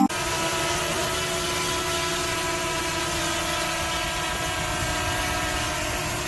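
A motor running steadily: an even hum of several held tones over a wide hiss.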